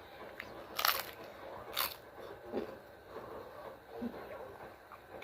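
Close-up eating sounds as a taco is bitten into: two short crunches about a second apart, then soft chewing.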